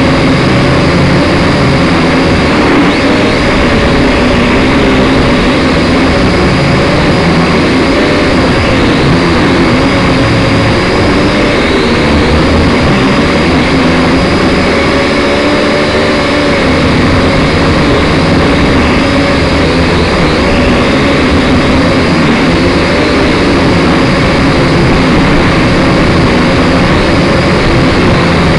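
Syma X5SC quadcopter's motors and propellers whining up and down in pitch as it flies, heard loud and close from its own onboard camera, over a steady rush of noise.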